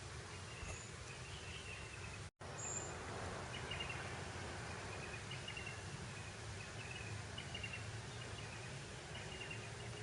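Breeze over open grassland, a steady low rush of wind, with short high chirps from small birds or insects repeating about once a second. The sound cuts out completely for a split second about two seconds in.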